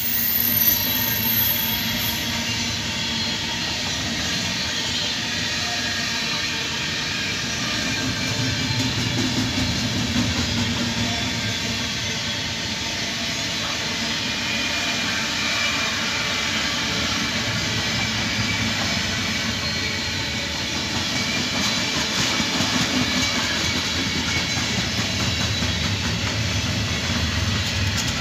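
Long intermodal freight train of container flat wagons rolling past, a steady continuous rumble and rattle of wheels on the rails.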